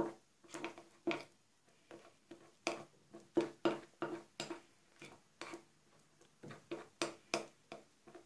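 A utensil knocking and scraping against a small bowl while stirring a thick cocoa, gelatin and warm milk mixture, about two strikes a second, unevenly spaced. The mixture is being worked until smooth.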